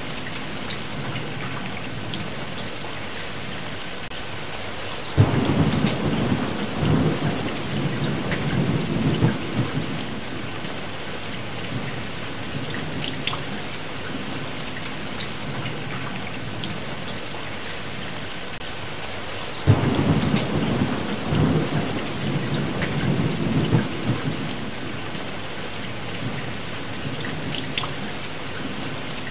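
Steady rain falling, with two rolls of thunder. Each starts suddenly and rumbles low for about five seconds, the first about five seconds in and the second about two-thirds of the way through.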